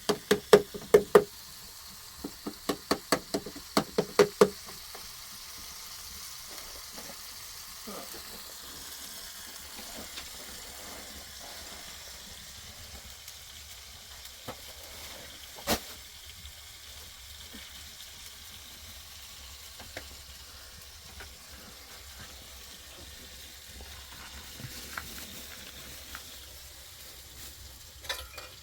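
A quick run of sharp knocks for the first few seconds, then steady sizzling of food frying in a pan, with occasional sharp clicks and crackles.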